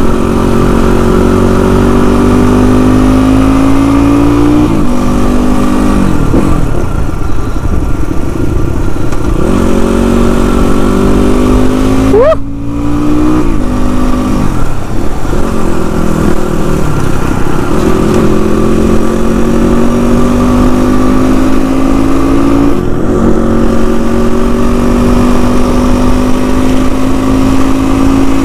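Motorcycle engine under way, heard from the bike: its pitch climbs slowly as it pulls in each gear, then drops at gear changes, several times over, with a long steady pull near the end.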